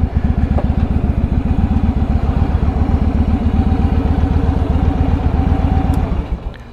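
Motorcycle engine running at a steady low idle, which the rider says is not yet warmed up. It cuts off about six seconds in.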